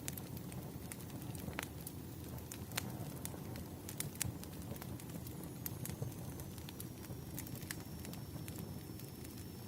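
Fireplace fire burning with a steady low rumble and irregular sharp crackles and pops. A faint thin high tone sounds from about halfway through.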